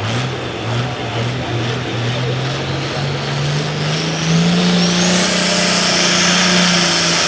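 Modified turbocharged diesel pulling tractor revved in short throttle blips, two or three a second. About four seconds in it opens up into a louder, steady run whose pitch climbs, with a high turbo whine rising over it as it makes its pull.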